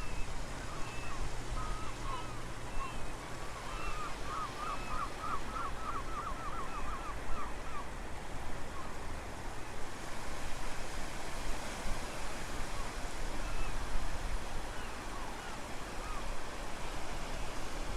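Ocean waves washing and strong wind buffeting the microphone with a low rumble. Through the first half a bird calls, with a quick run of about a dozen chirps roughly four seconds in.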